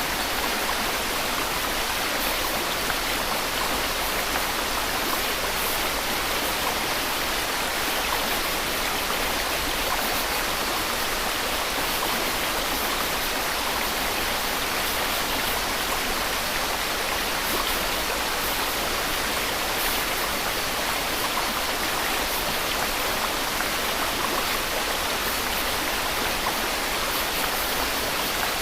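Steady white noise: an even, unchanging hiss, strongest in the middle and upper range and thin in the low end.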